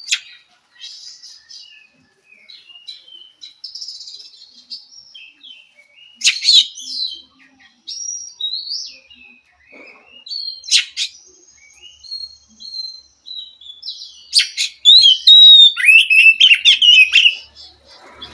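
Oriental magpie-robin singing a varied song of clear whistles, chirps and short trills, with a louder, fast run of notes near the end.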